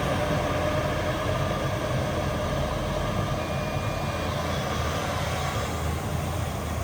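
Diesel engines of heavy earthmoving machinery, dump trucks and a bulldozer, running steadily.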